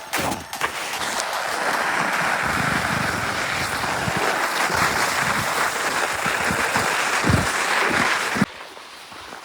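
Steady rushing, scraping noise of sliding down an icy snow slope, with scattered low thumps. It cuts off abruptly near the end.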